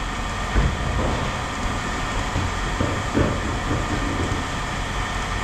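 Steady mechanical rumble of running machinery, with two short knocks about half a second and three seconds in.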